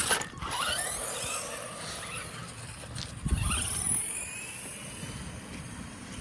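Electric RC car motor whining as it speeds up and slows, its pitch gliding up and down, with tyre noise on concrete. There is a knock right at the start and a thud about three seconds in.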